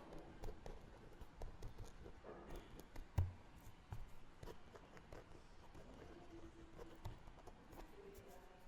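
Quiet library ambience: scattered light clicks and rustles, with a soft low thump about three seconds in.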